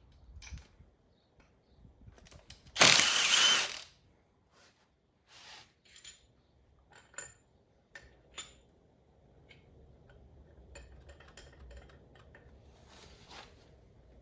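Ratchet and socket working on cylinder head bolts, with scattered ratchet clicks and metal tool clinks. About three seconds in there is a loud rush of noise lasting about a second.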